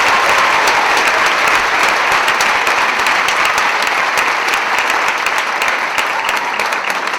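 Concert audience applauding steadily, slowly dying down near the end.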